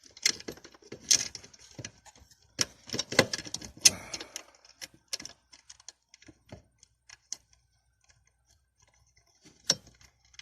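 Metal tools and hardware clinking and rattling as they are handled: a busy run of clicks and jangles for the first few seconds, then scattered light taps, with one sharp clink near the end.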